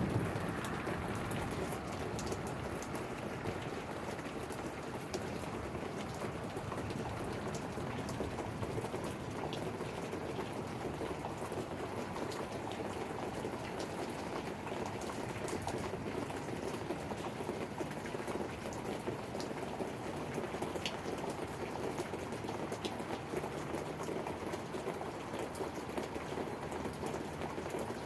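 Steady rain falling during a thunderstorm, an even hiss with scattered ticks of individual drops. A low rumble dies away in the first second or so.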